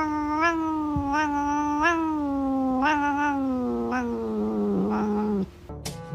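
A cat yowling in one long, drawn-out cry that wavers in little pulses and slowly sinks lower in pitch, cutting off about five seconds in.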